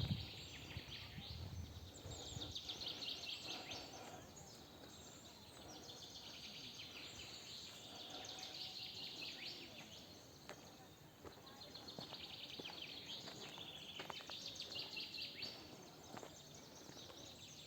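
Songbirds singing, faint: rapid trilling phrases that come again every few seconds, with a low rustle or handling noise in the first couple of seconds.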